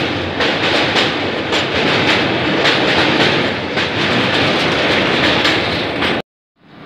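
Passenger train with LHB coaches crossing a steel truss bridge at speed, heard from the coach: a loud steady rumble with wheel clacks about twice a second. It cuts off suddenly about six seconds in.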